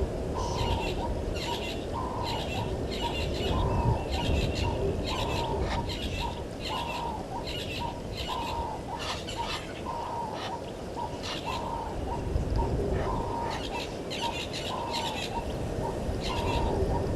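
Wild birds calling at a waterhole in the African bush: short notes repeated about once or twice a second, over a steady low rumble.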